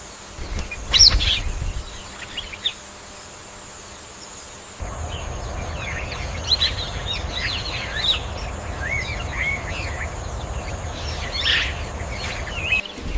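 Tropical forest ambience: several birds calling with short chirps and downward-sweeping notes, over a steady high insect whine. About five seconds in the background turns to a louder low noise and the bird calls come thicker.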